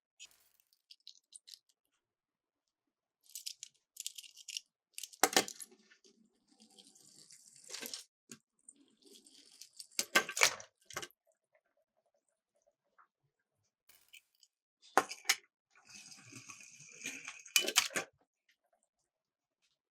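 Small die-cast toy cars clattering down a plastic track: several short bursts of rattling, each with a sharp click or knock, separated by near-silent gaps.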